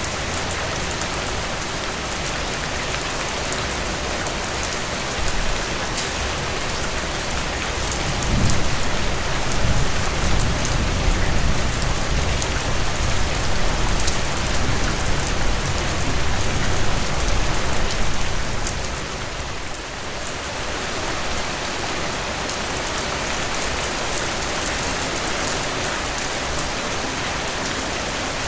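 Steady rainfall: an even hiss with fine patter of individual drops. A low rumble swells in underneath about a third of the way in, lasts about ten seconds, then fades.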